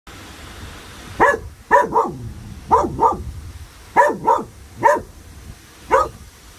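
A dog barking about nine times in short, sharp calls, several in quick pairs, each dropping in pitch. The owner wonders whether the dog was startled by the sound of the wind.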